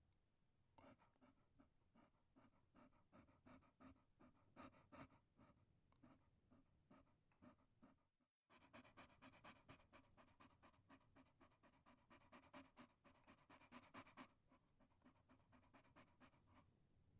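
Chihuahua panting quickly and faintly, with a steady run of short breaths about four or five a second and a brief break about halfway through.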